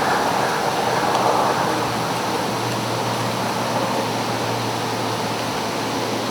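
Steady rushing wind noise, slightly stronger in the first couple of seconds.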